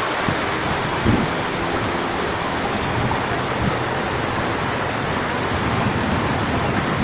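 Strong wind blowing through coconut palm fronds, a steady rushing hiss, with a low gust buffeting the microphone about a second in.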